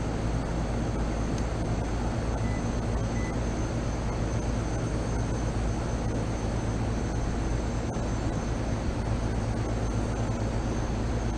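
Rooftop air-conditioning unit running steadily on its first cooling stage: compressor and condenser fan giving a constant low hum under a steady rush of air.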